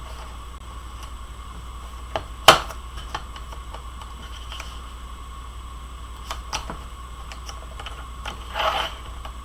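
Paper and small crafting tools being handled on a desk: scattered clicks and taps, the loudest a sharp knock about two and a half seconds in, and a short rustle near the end, over a steady low background hum.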